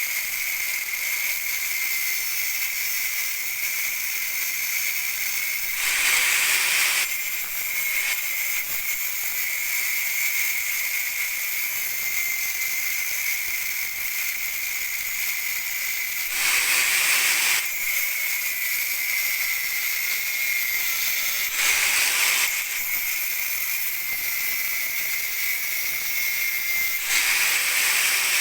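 Grinder running against a Xenia car's metal exhaust pipe, giving a steady high whine and a hiss. Four times it grows louder for about a second.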